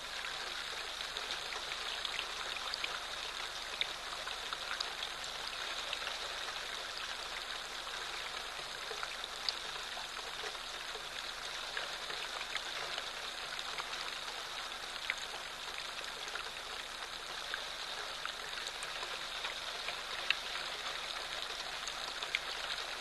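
Light rain falling steadily, with scattered individual drops ticking sharply on nearby surfaces.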